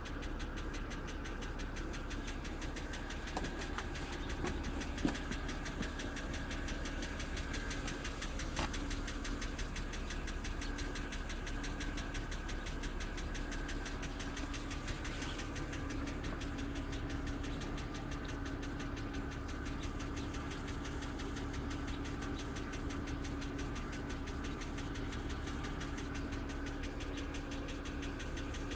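2007 BMW X3 engine idling after a cold start with a loud, rapid knocking, and a few sharper clicks in the first nine seconds.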